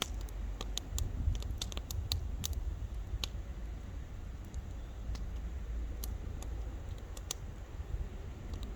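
Wood campfire crackling: irregular sharp pops and snaps, many in the first three seconds and fewer after, over a steady low rumble of the burning fire.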